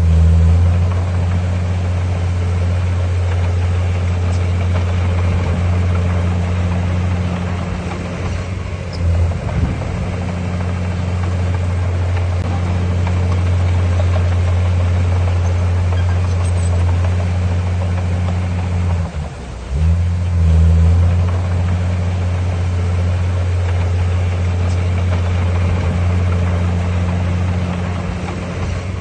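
Heavy diesel earthmoving engine running steadily under load, a deep drone that drops briefly about nineteen seconds in and then picks up again.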